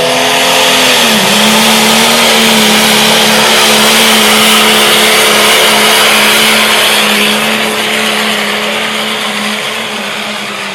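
Cummins diesel truck engine held at high, steady revs under heavy load while pulling the sled, its pitch dipping briefly about a second in. The loud engine and exhaust noise eases off somewhat in the last few seconds.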